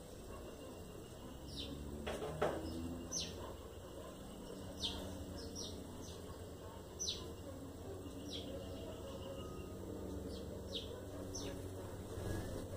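Birds giving short, high, falling chirps about once a second over a low steady background hum, with one louder falling cry about two seconds in.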